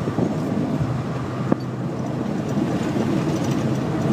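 BMW E39 M5's 4.9-litre V8 with a Billy Boat aftermarket exhaust, a steady low drone heard from inside the cabin while driving. A single sharp click about a second and a half in.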